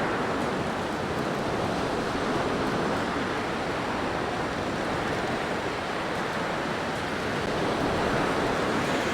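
Steady howl of blizzard wind, a dense rushing noise that swells and eases slowly, a little stronger near the end.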